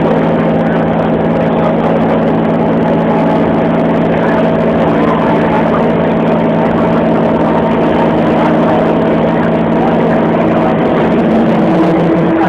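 Mumbai suburban electric local train running, heard from inside a carriage: a loud, steady rumble with a steady low hum, the hum changing near the end.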